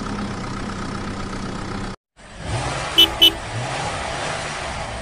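Steady vehicle-like noise that cuts off suddenly about two seconds in. Then a car engine sound comes up with rising and falling revs, and a car horn beeps twice in quick succession.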